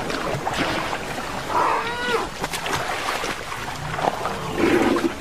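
Asian elephants wading through water, splashing, with a short, bending high-pitched call from an elephant about two seconds in and a lower call near the end.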